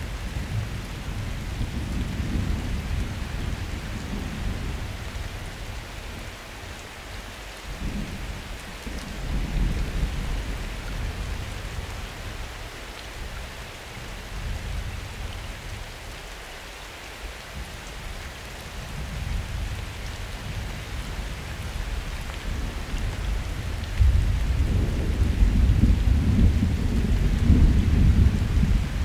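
Summer thunderstorm: steady rain falling, with thunder rumbling low and rolling in and out several times. A louder, longer peal sets in about five seconds before the end.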